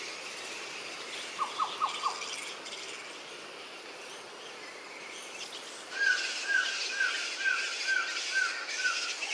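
Forest ambience of birds and insects. About a second and a half in come four quick notes; from about six seconds the chorus grows louder, and a bird repeats a short falling note about eight times, at an even pace.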